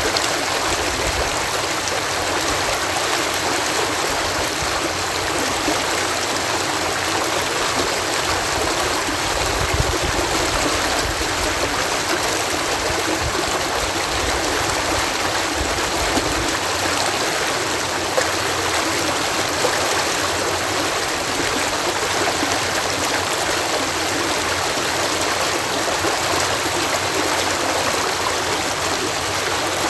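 Water cascading through a canal lock, a steady, even rush of falling and churning water.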